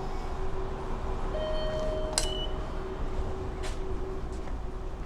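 Electronic beep tones from a station ticket machine over a steady electrical hum. There is a sharp click about two seconds in, followed by a brief higher beep, and a few lighter clicks later.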